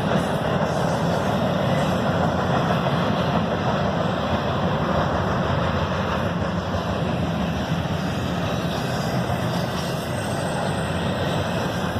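Freight train rolling past, a loud steady rumble of wheels on rail that holds even throughout.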